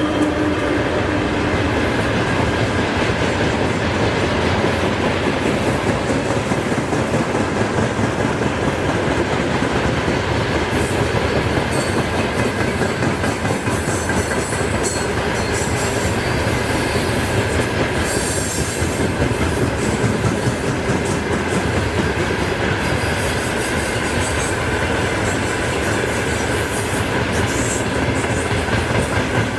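Freight train's wagons rolling steadily past, wheels clattering rhythmically over the rail joints.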